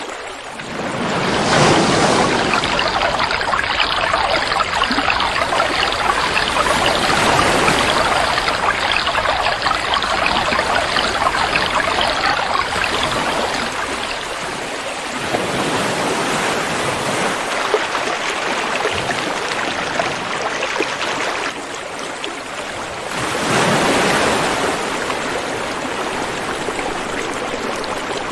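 River water flowing steadily, swelling louder about two seconds in and again near the end.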